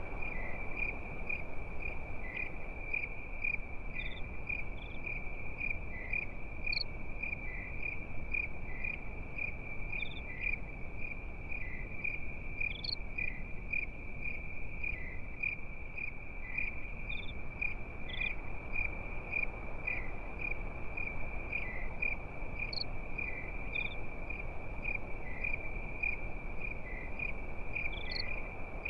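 Crickets chirping at night in a steady, high, pulsing trill, with a few higher single chirps now and then.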